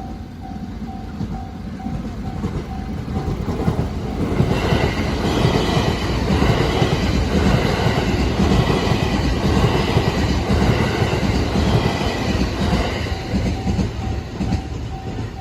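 JR West 323 series electric train passing over a level crossing. Its rumble and wheel clatter build from about four seconds in, stay loud for several seconds, then fade. The crossing's warning bell rings rapidly throughout, heard plainly at the start and again near the end.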